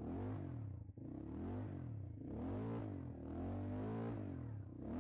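ATV engine revving up and dropping back over and over, its pitch rising and falling about once a second, as the quad is rocked back and forth to free it from being stuck.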